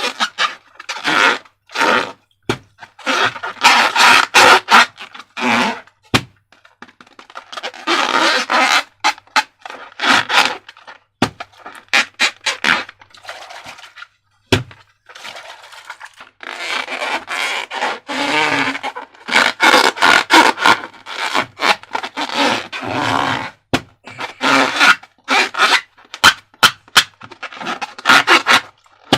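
Transparent rubber balloons and slime being handled: rubbing and scraping of rubber with squelches and sharp clicks, in irregular bursts broken by short pauses.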